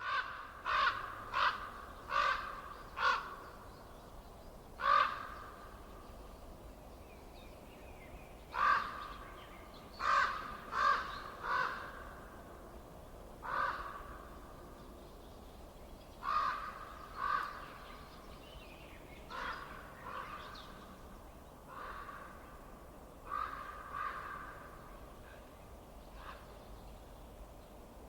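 A bird calling over and over, each call short, in runs of two to four calls every few seconds, over a faint steady background noise.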